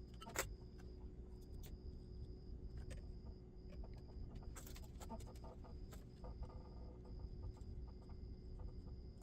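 Faint scattered clicks and taps of small tools and wires being handled during soldering work on a model locomotive's wiring, over a steady low hum.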